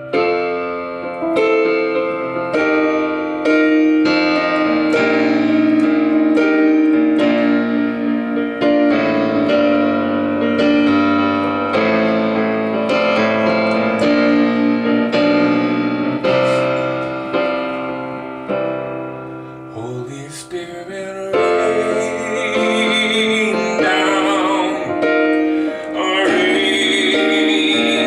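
Piano playing a slow worship-song accompaniment in F major, chords struck in a steady pulse. Near the end a wavering, vibrato melody line joins above the keyboard.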